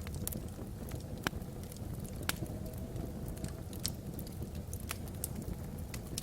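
Wood logs burning in a fireplace: a steady low rumble of the fire with sharp crackles and pops every half second to a second or so.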